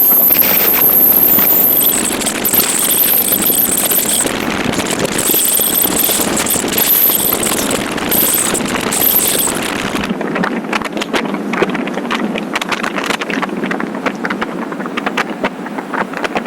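Motorcycle on the move: steady engine and road noise with a high whine. About ten seconds in the whine stops and the sound thins to a rougher, crackly rush.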